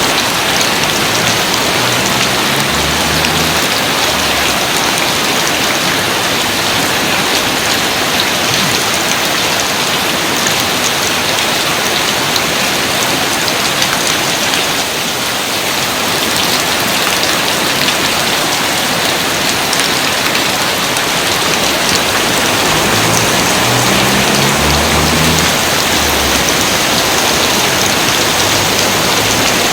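Steady, dense rain: an even hiss of countless drops that holds the same level throughout.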